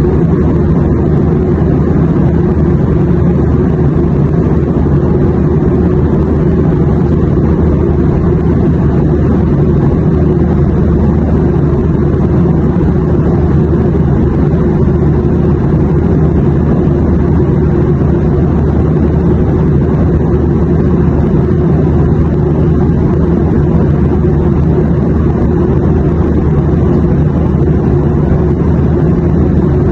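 Airplane noise: a steady, unbroken low rumble that stays level throughout.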